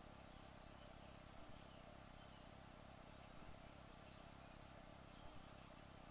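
Near silence: a faint steady hiss of room tone, with a few soft, faint knocks about every two seconds.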